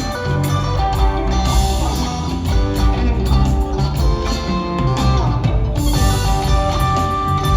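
Live rock trio playing an instrumental jam: electric guitar lines over bass guitar and drums, with no singing, recorded loud on a phone from the audience.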